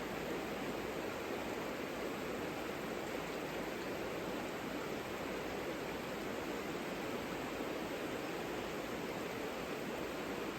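Savica river flowing: a steady, even rush of water.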